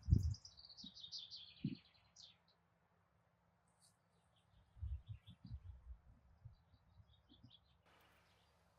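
A bird singing a quick run of high notes that steps down in pitch over about two seconds, then faint scattered chirps. Dull low thumps come at the start and again around five to six seconds in.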